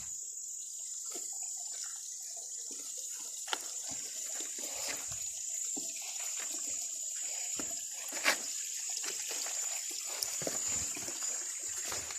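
Water trickling and splashing over a steady high-pitched hiss, with scattered light knocks and one sharp click about eight seconds in.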